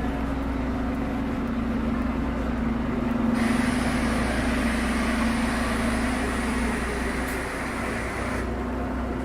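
Steady low mechanical hum under a wash of noise. A hiss in the upper range comes in abruptly about three seconds in and cuts off about five seconds later.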